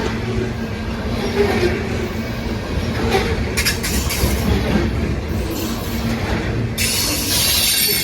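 Loaded coal train cars rolling past: a steady rumble of steel wheels on rail, with a few sharp clacks about three to four seconds in and a louder high-pitched hiss near the end that drops away suddenly.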